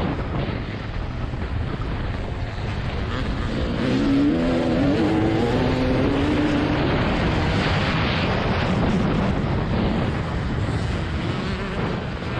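TM 300 two-stroke motocross engine running under load, its pitch rising and falling as the throttle is worked, with wind noise on the microphone.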